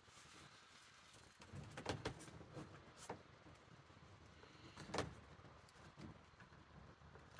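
Near silence with faint handling noise: a few light knocks and low rumbling as a plastic patch is held pressed against a roof box shell.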